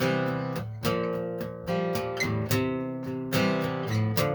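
Acoustic guitar strumming chords, one struck a little under once a second and ringing out before the next.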